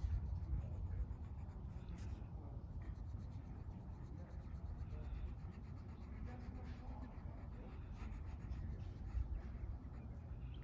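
Rapid, continuous scratching strokes of coloring on paper, over a low steady outdoor rumble.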